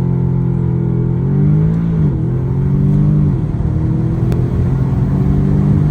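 Audi S3's turbocharged 2.0-litre four-cylinder, fitted with a turbo muffler delete and an aftermarket turbo inlet, pulling under acceleration. Its pitch climbs, then drops sharply twice, about two and three and a half seconds in, as at gear changes.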